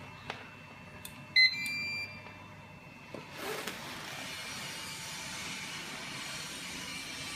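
Electrofusion welding machine sounding a loud short electronic beep about a second and a half in, followed by a quieter held tone. About two seconds later a steady rushing machine noise starts up and keeps running.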